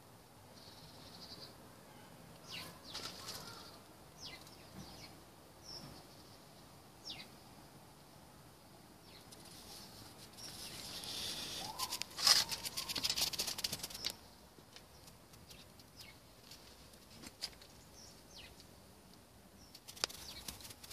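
Birds chirping now and then, faint, with a louder burst of rapid flutter-like clicks lasting about two seconds around the middle.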